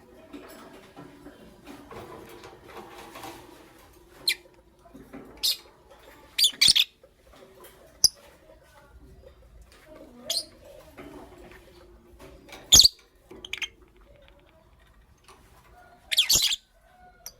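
Lovebirds giving short, sharp, high-pitched chirps, scattered singly and in quick pairs. The loudest comes about 13 s in, and a longer burst of calls comes near the end, over a faint low warbling background.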